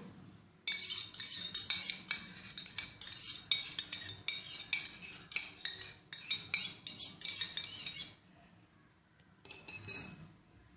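Metal spoon stirring in a cup, clinking rapidly and repeatedly against its sides for about seven seconds, then a short second burst of clinks near the end.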